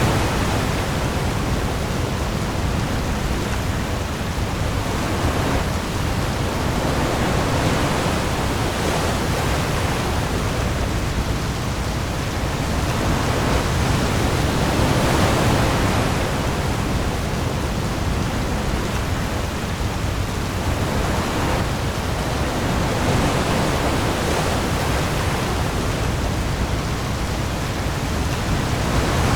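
Heavy rain pouring onto the sea surface with waves, a dense steady hiss that swells and eases every few seconds over a deep low rumble.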